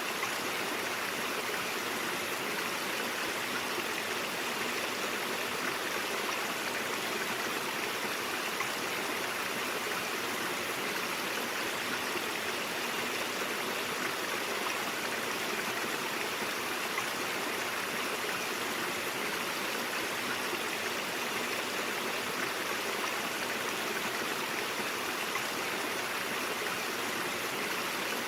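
A mountain stream flowing over rocks: a steady, even rush of water with no breaks.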